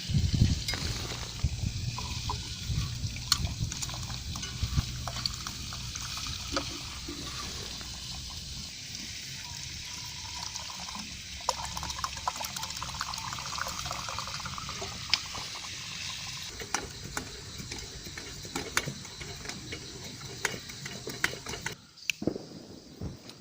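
Food sizzling in a pan, a steady hiss with frequent clinks and scrapes of utensils against cookware. Near the end it cuts off abruptly to a much quieter background.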